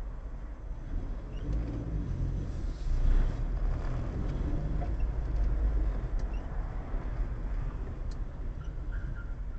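Vehicle engine and road noise heard from inside the cab while driving in traffic: a steady low rumble that grows louder about a second in as the vehicle gets moving.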